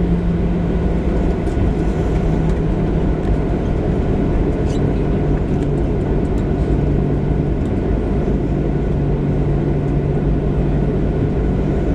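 Cabin noise of a Boeing 737-700 taxiing after landing: the CFM56-7B engines running at low thrust as a steady rumble, with a low hum that shifts slightly in pitch.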